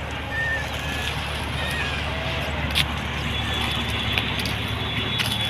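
An engine running steadily with a low hum, under a haze of noise.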